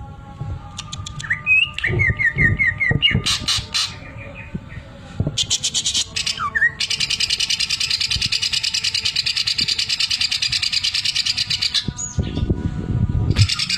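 Green leafbird (cucak ijo) singing: chips and a quick run of rising whistled notes, then a long, very rapid, even rattle lasting about five seconds, its imitation of a sewing machine. A few low thuds come near the end before the rattle starts again.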